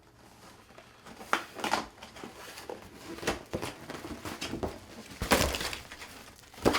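Rustling, crinkling and a few short knocks as donuts and their packaging are handled while being counted out.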